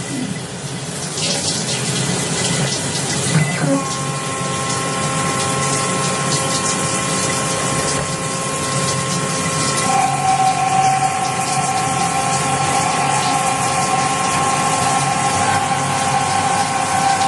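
Emco Turn 220 CNC lathe running under Mach3 control: a steady hiss with motor whine. Another whine comes in about four seconds in, and a stronger one about ten seconds in, as the drives change speed.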